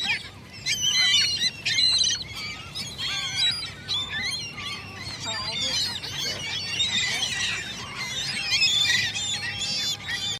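A flock of gulls calling, many short cries and squawks overlapping at once, over a faint steady low rumble.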